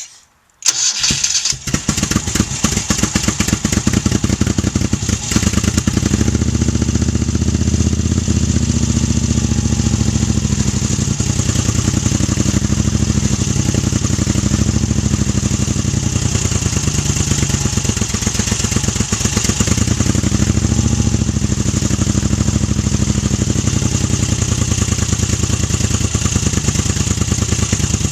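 Moto Guzzi California III V1000's air-cooled V-twin catching on a cold start about a second in, then running steadily at idle with an even, pulsing beat.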